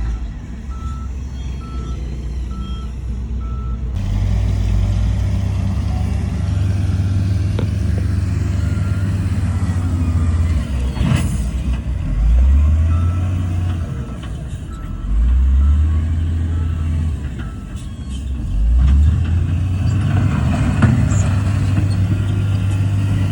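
Heavy diesel earthmoving machinery working, its engine rumble rising and falling with load several times. A reversing alarm beeps at a steady pace in the first few seconds and again around the middle.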